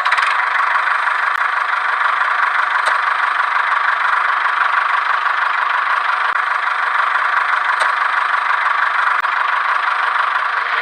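A small motor running steadily, an even whirring noise that holds the same speed throughout.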